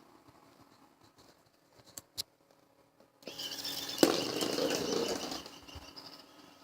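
A caged pet bird flapping its wings for about two seconds, with a sharp knock partway through. Two short clicks come shortly before.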